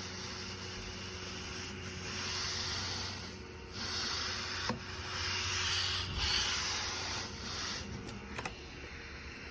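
ODISTAR battery-powered mini desktop vacuum running with a steady low hum, its brush rubbing across a countertop. The hiss swells and fades several times.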